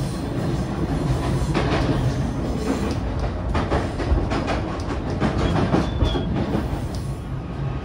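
JR E131 series electric train running, heard inside the motored car MoHa E131-1001. There is a steady low rumble, wheels clatter over a run of track joints through the middle, and a brief high squeal comes about six seconds in.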